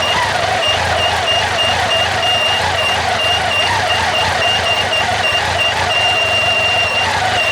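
Honda CB1100SF X11's inline-four running, with a high-pitched squeak from the water pump chirping about three times a second and turning into a steady squeal near the end. This is the abnormal noise of the faulty water pump.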